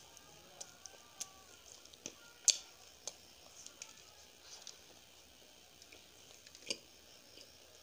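Close-up mouth sounds of someone chewing a soft sweet: scattered wet clicks and smacks at an irregular pace, with a sharper one about a third of the way in and another near the end.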